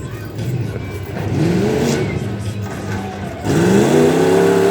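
Ford Ranger's 351 Windsor V8 revving hard under throttle, rising in pitch twice in short pulls, then climbing sharply near the end and holding high revs.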